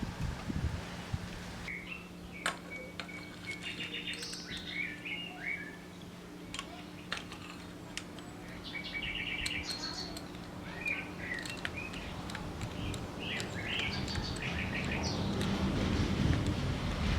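Small birds chirping and twittering in short repeated phrases, with a few sharp clicks and a steady low hum underneath.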